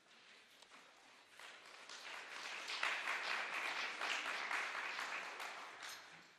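Audience applauding. The clapping swells about two seconds in and dies away near the end.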